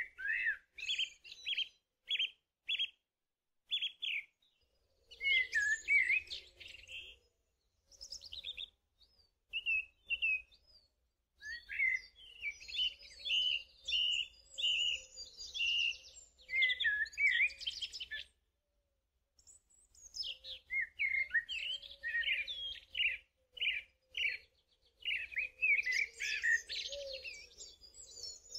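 Small birds chirping and twittering: runs of short, high calls broken by brief pauses.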